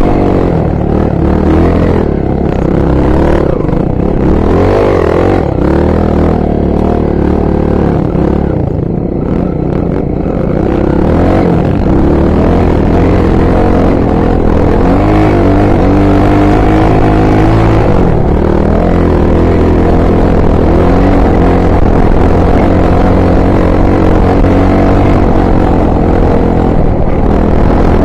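Honda XR 250 Tornado trail bike's single-cylinder four-stroke engine running under way, its pitch rising and falling with the throttle.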